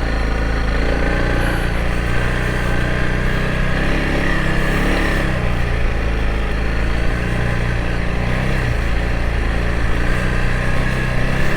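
Honda CRF300L Rally's single-cylinder engine running as the bike rides along, with a low rumble of wind underneath. The revs dip and pick up again about four to five seconds in, and once more briefly around nine seconds.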